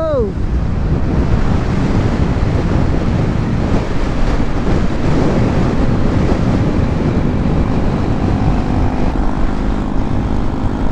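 Motorcycle riding along: a steady engine drone mixed with wind rushing over the rider's microphone.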